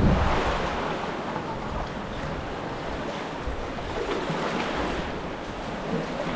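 Wind gusting across the microphone over choppy sea water splashing and lapping around a sea kayak.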